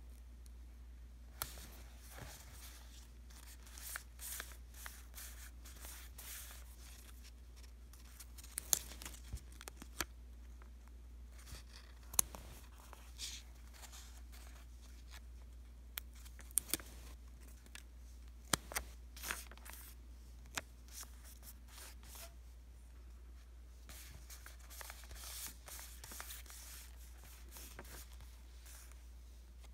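Paper stickers being peeled from their backing sheet and pressed onto diary pages: scattered sharp clicks and short papery rustles and tears, over a steady low hum.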